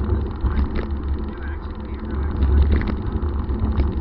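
Car on the move: a steady, low rumble of engine and road noise that swells and fades slightly.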